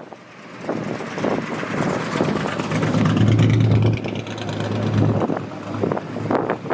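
A car driving past with its engine running, giving a steady low drone for about two seconds in the middle. Gusty wind buffets the microphone.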